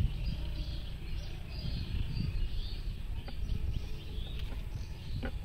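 Small birds chirping and twittering in quick, overlapping calls, over a low, uneven rumble.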